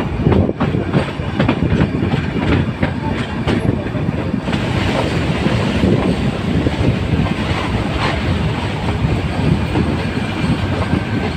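Nilgiri Mountain Railway metre-gauge train running on the track with a steady rumble. The wheels click over rail joints, most clearly in the first few seconds.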